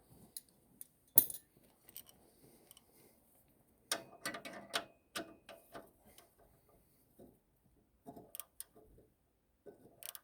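Metal clinks and taps of hand tools and parts being handled, with one sharp knock about a second in and a cluster of clinks about four to five seconds in.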